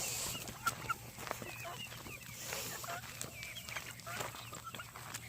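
Chickens clucking and chirping, many short calls overlapping, with scattered light clicks.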